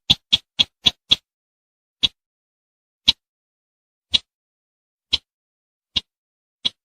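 Call of the sintar semak bird: a series of short, sharp notes. They come quickly, about four a second, then slow to about one a second after the first second.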